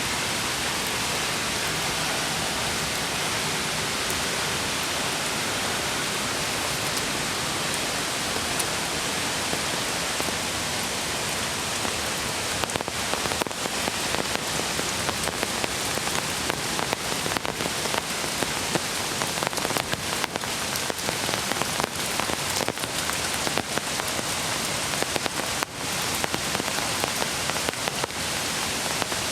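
Steady rush of a mountain creek under falling rain, with close raindrops tapping irregularly, more densely from about halfway through.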